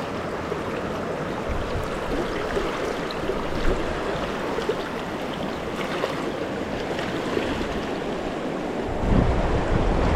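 Rushing river water, a steady noise of current over rocks. About nine seconds in, wind starts buffeting the microphone with a low rumble.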